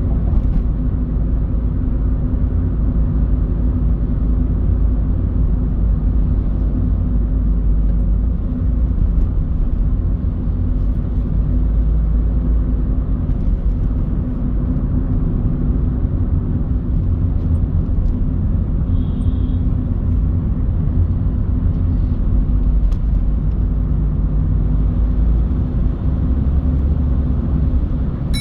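Car driving in city traffic: a steady low rumble of engine and tyre noise.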